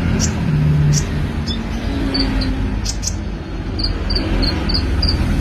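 Sunbird singing: short, high-pitched chirps and sharp ticks in quick, irregular series over a steady low rumble.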